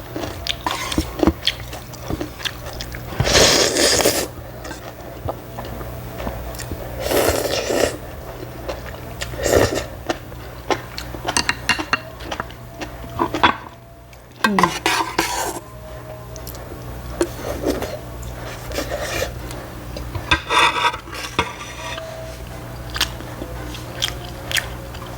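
Eating sounds close to the microphone: chewing and biting on ramyun noodles and kimchi, in short bursts every few seconds, with utensils now and then clicking against the pot and dishes.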